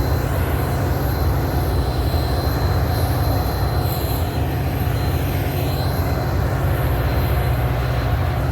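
Train running on the rails: a steady, heavy low rumble with a thin, high, steady ring of wheel squeal over it.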